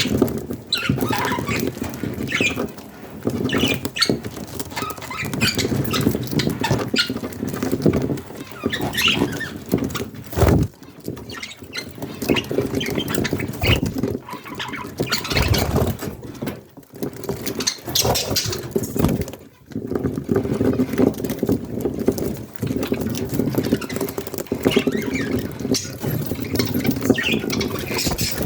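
Budgie chicks scratching and shuffling, many short scratchy taps over a steady low hum.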